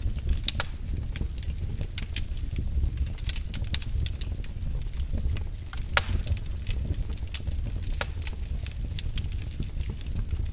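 Fireplace fire crackling, with frequent irregular sharp pops over a steady low rumble of flame; one louder pop about six seconds in.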